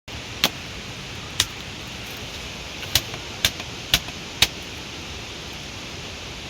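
Steady hiss of heavy rain, with six sharp ticks scattered through its first four and a half seconds.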